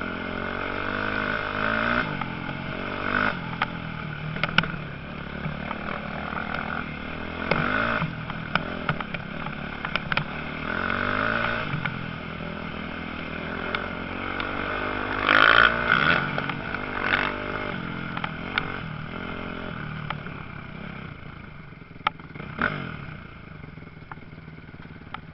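Motocross bikes racing, engines revving up and down as they pass. The sound is loudest about halfway through and fades away over the last few seconds, with scattered sharp clicks throughout.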